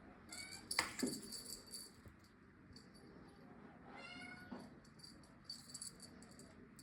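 A cat meowing: a short call at the start, a louder falling meow about a second in, and another meow around four seconds in, with intermittent high-pitched jingling between them.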